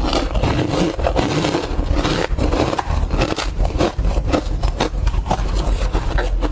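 Refrozen tartary buckwheat tea ice scraping and crackling, with a dense run of sharp cracks and clicks.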